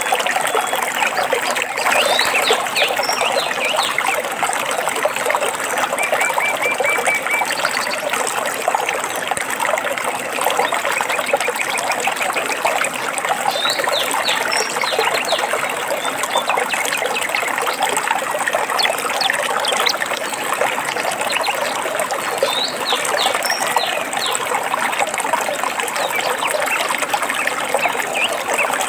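Small stream trickling and splashing steadily, with birds chirping now and then over it, including a short quick trill about six seconds in.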